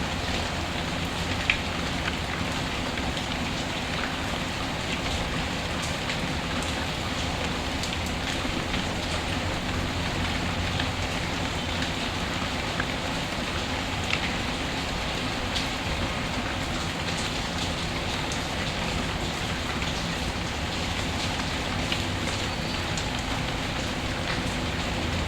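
Steady rain falling, with a few sharp crackles and pops from a wood fire, the loudest about a second and a half in.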